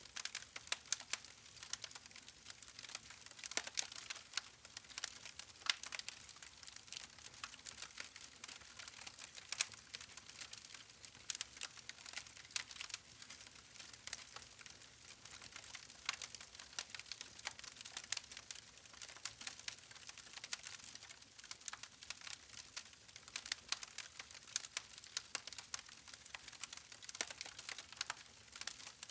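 Wood fire crackling: a faint steady hiss with irregular sharp pops and snaps from the burning logs, several a second.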